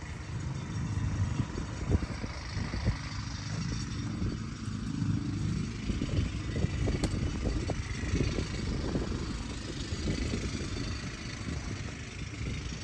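A vehicle engine running steadily, with uneven low rumbling and thumps.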